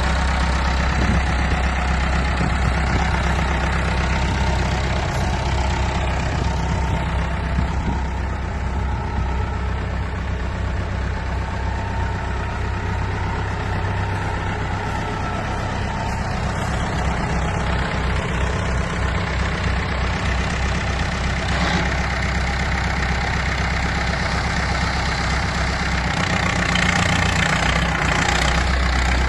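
1978 Massey Ferguson 575 tractor's four-cylinder Perkins diesel engine running steadily at idle, a little louder near the end.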